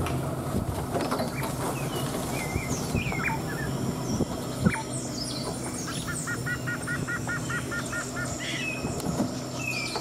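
Several forest birds calling with scattered chirps and short whistles, including a quick run of about ten repeated notes in the second half. A single sharp knock about four and a half seconds in, over a steady low hum.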